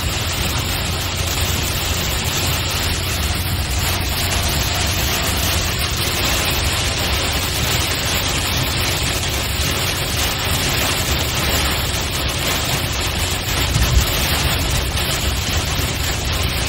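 Steady road and rain noise of a car driving through a thunderstorm, with a short low thump about fourteen seconds in.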